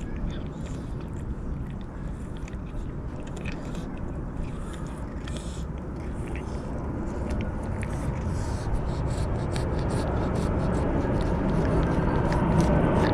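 A cat eating from a bowl, many quick crunching ticks of chewing, over a steady low rumble that gets louder toward the end.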